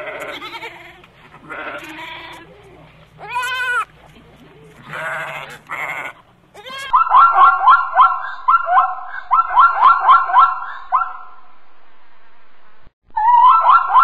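A goat bleating four times, short pitched calls, one with a wavering pitch. Then a zebra's barking call: rapid high yelps repeated in a long run, breaking off and starting again near the end.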